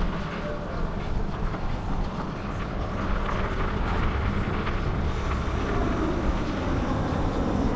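Steady wind rush and rolling road noise from riding a bicycle, the wind buffeting the microphone, growing a little louder near the end.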